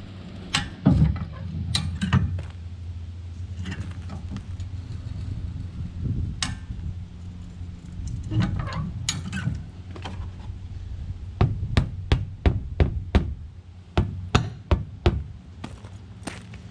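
Hi-Lift farm jack being worked, its handle and climbing pins clacking in a series of sharp clicks that come in a quick run of about two a second in the second half, as it forces a tire's bead down off the rim. A steady low hum runs underneath.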